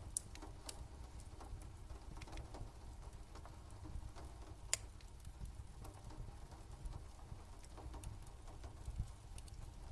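Fire crackling: irregular small pops and ticks over a low, steady rumble, with one sharper pop about halfway through.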